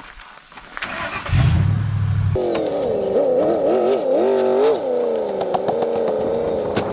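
The 1968 Ford Thunderbird's 429 V8 running on the road, its note wavering up and down as the throttle changes. It begins abruptly about two seconds in, after a brief low hum.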